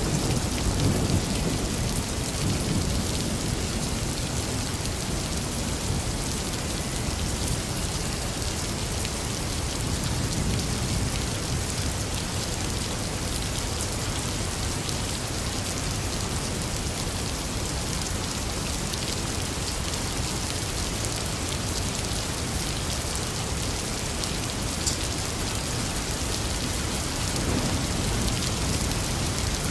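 Steady heavy rain falling, a dense even hiss. A low rumble of thunder fades out over the first couple of seconds.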